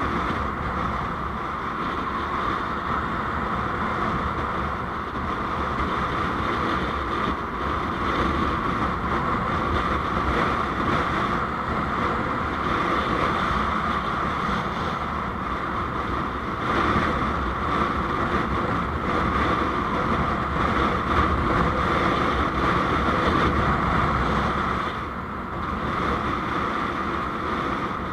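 Steady road and wind noise of a vehicle on the move, a constant rushing hum that swells a little over halfway through and dips briefly near the end.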